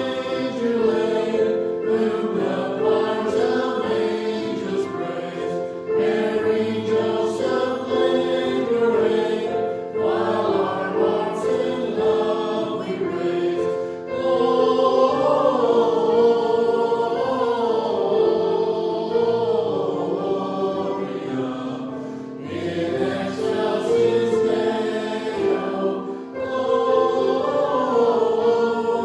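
Choir singing a hymn in several voice parts, long held notes in phrases with short breaths between them.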